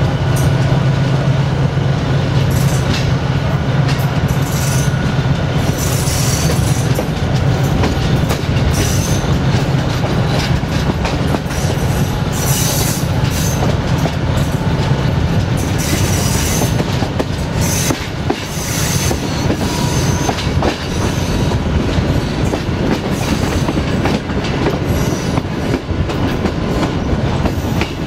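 Passenger coaches of a train rolling on the rails, their wheels clattering over joints and points, with several short high-pitched wheel squeals. Under it runs the steady drone of the LDH diesel-hydraulic locomotive, loudest in the first half.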